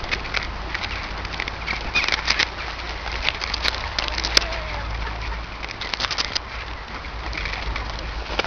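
A flock of ducks and swans crowding in to be fed: a busy mix of wing flaps, splashes and short calls.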